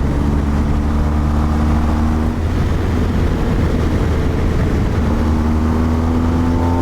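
Motorcycle engine under acceleration on the open road, its pitch climbing steadily for the first couple of seconds and again from about five seconds in, over a heavy, steady low rumble of wind and road noise on the microphone.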